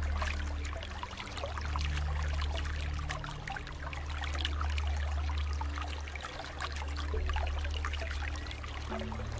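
Flowing water, trickling and splashing steadily. A low steady drone runs underneath and shifts pitch a few times.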